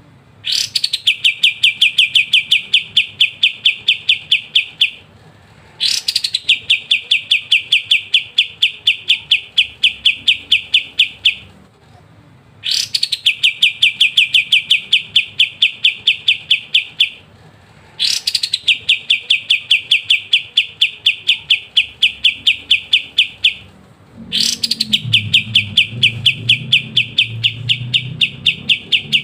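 A kapas tembak songbird singing its rapid rattling 'ngebren' song: five bouts of quickly repeated bright notes, each starting with a short upward sweep, running about five seconds, then breaking off for a second. A faint low hum joins near the end.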